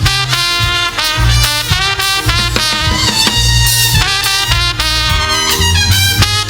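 Live gospel band playing an instrumental passage: short punchy horn-like chords over a heavy bass line.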